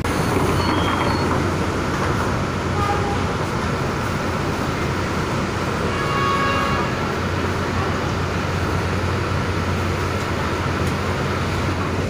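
Steady running noise of a PNR commuter train, with a brief pitched tone about six seconds in.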